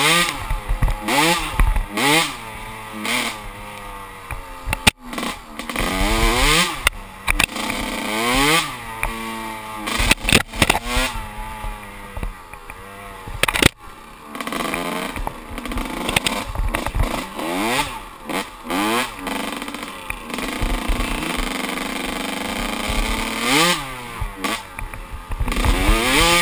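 Kawasaki KX125 two-stroke single-cylinder dirt bike engine being ridden hard, revving up and dropping back again and again as the throttle is opened and closed through the gears.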